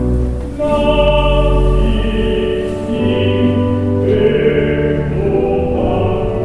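Church music: sustained chords over deep held bass notes, the harmony changing every second or two.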